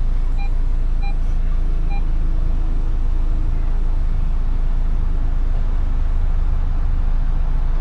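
Audi Q5 engine idling with a steady low rumble. Three short electronic beeps, like a parking sensor, sound in the first two seconds and then stop.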